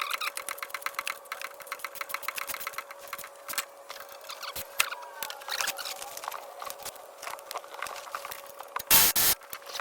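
Socket ratchet clicking rapidly as exhaust bolts are worked loose from underneath the car. Near the end there is a brief, loud burst of noise.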